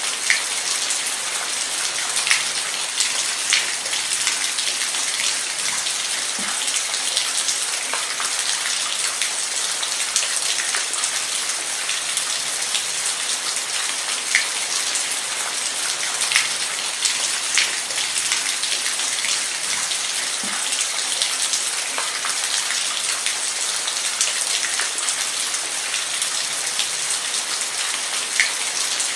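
Steady rain falling, an even hiss with occasional sharper drops striking close by, about one every second or two.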